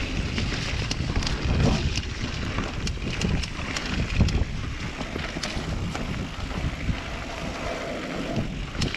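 Wind buffeting the microphone over the rumble of a bike riding down a rough, rutted dirt trail, with many short clicks and knocks from the bike along the way.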